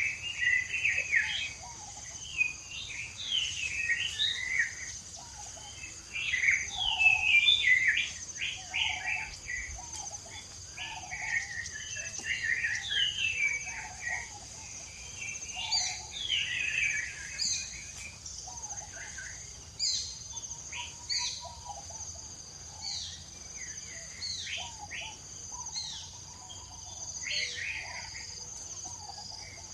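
Many short, high chirping animal calls in quick runs, loudest about seven seconds in, over a steady high-pitched insect drone.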